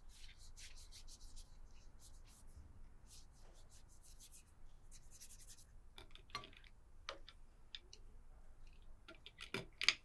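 Quick, short scratching strokes of a hand tool working a surface, then a run of light knocks and clicks, the loudest near the end.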